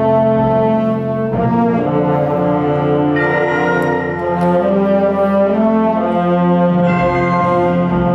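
A school wind band playing slow, sustained brass-led chords, with trombones, horns and trumpets prominent and the harmony shifting every second or two.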